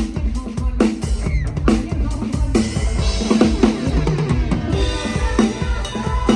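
Live band music with a PDP drum kit out in front, recorded on a phone. Kick drum, snare and rimshots play a steady beat, with other pitched instruments underneath, more of them in the second half.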